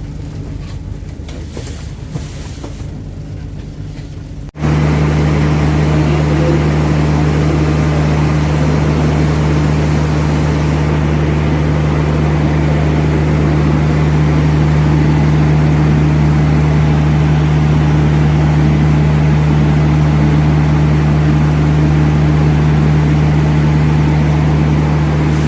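Train rumble, then after a sudden cut about four seconds in, a loud steady diesel engine drone with a deep unchanging hum, from the train's locomotive or generator.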